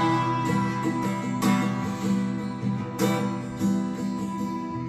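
Acoustic guitar strumming ringing chords with slow, evenly spaced strokes: the closing bars of the song after the last sung line.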